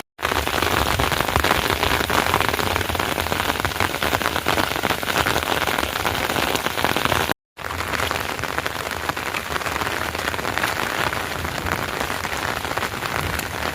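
Heavy rain falling steadily, a dense patter of many drops hitting surfaces. The sound breaks off for a split second about halfway, then carries on.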